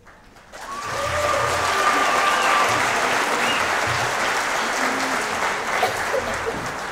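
Audience applauding at the end of a choir song. The clapping starts about half a second in, swells, holds steady, and begins to thin out near the end, with a few voices calling out over it.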